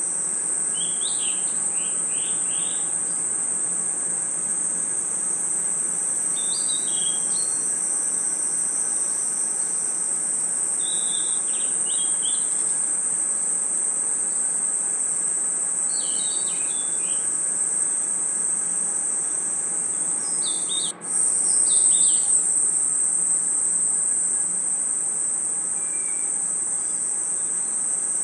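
Night chorus of crickets and other insects: a steady, high-pitched trill, with short clusters of chirps every few seconds. About two-thirds of the way through, the sound drops out for an instant and comes back slightly louder.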